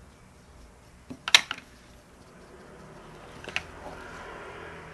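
Handling of a powder compact and puff: a sharp click about a second in and a lighter click a little past three and a half seconds, then a faint soft rubbing.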